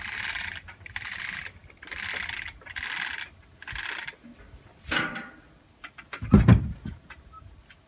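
A rhythmic rasping, about one stroke a second for the first four seconds, then a short scrape, a single heavy thump about six and a half seconds in, and a few light clicks.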